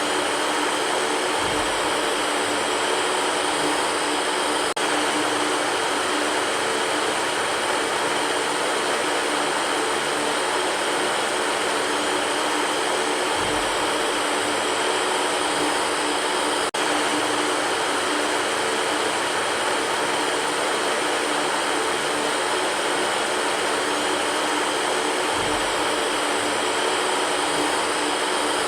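Electric fan running steadily: an even whooshing hiss with a faint motor hum underneath, and a faint low thump about every twelve seconds.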